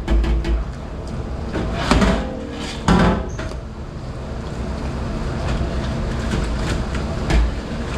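Dish-pit clatter: two loud clanks about two and three seconds in, the second with a brief metallic ring, over a steady running noise.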